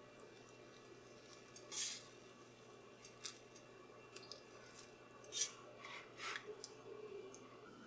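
Kitchen utensils and dishes being handled: scattered light clicks and taps with a few short scrapes, the louder ones about two seconds in and again near five and six seconds.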